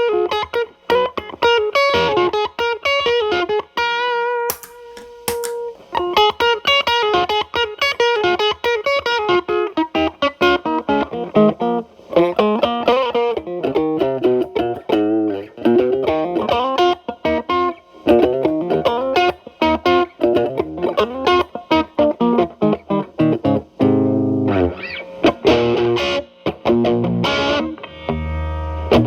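Electric guitar, a Telecaster with single-coil pickups through an MI Audio Crunch Box distortion pedal into a Marshall Valvestate amp's clean channel, with the drive cleaned up to a light crunch. It plays improvised single-note lines with one note held about four seconds in, then moves to strummed chords near the end.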